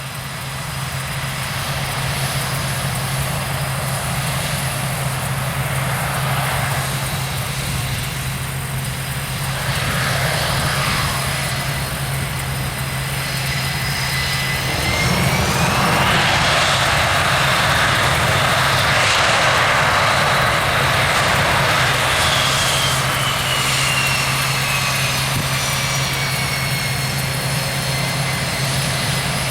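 Aircraft engines running with a steady low drone. A jet's turbine whine climbs in pitch about halfway through, then sinks slowly again over the last several seconds.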